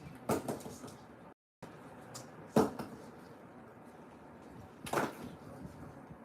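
Concrete being broken by hand: three heavy blows from a hand tool, spaced about two seconds apart, the middle one the loudest.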